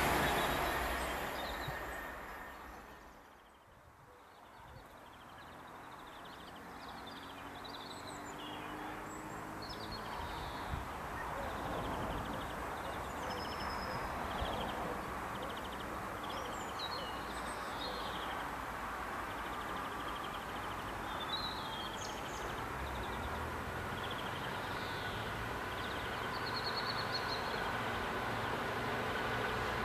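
A passing Class 222 Meridian diesel train dies away over the first few seconds. Then small birds chirp and sing while a Class 66 diesel freight locomotive approaches, its engine rumble growing slowly louder.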